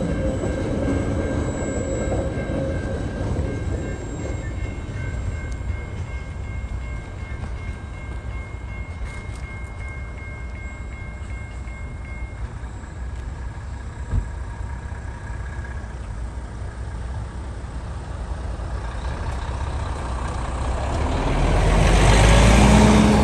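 Freight train wagons rolling away over the level crossing, a low rumble with a faint steady wheel squeal that fades out about halfway through. Near the end a diesel truck engine grows loud close by, its pitch rising and falling as it drives off.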